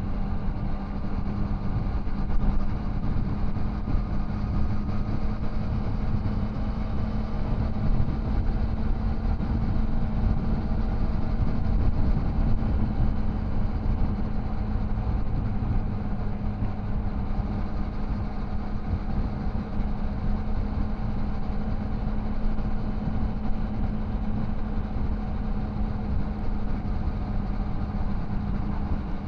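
Triumph Tiger Sport 660's three-cylinder engine and exhaust pulling at a steady cruising speed, its pitch holding even throughout, over a low rumble of wind and road noise.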